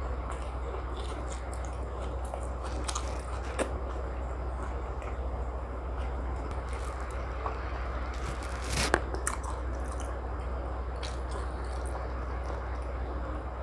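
A person chewing and biting food close to the microphone, with scattered small crunches and clicks. There are two sharper clicks, about a quarter of the way in and about two thirds in, over a steady low hum.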